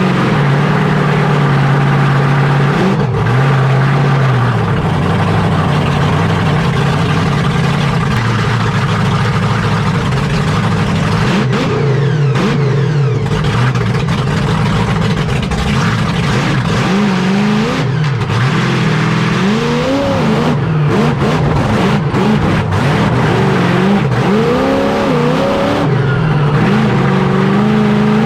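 Monster truck engine running loud and revving hard, its pitch climbing and falling again several times in the second half.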